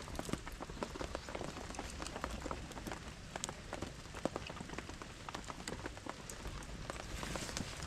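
Steady rain falling, with many scattered sharp ticks of individual drops.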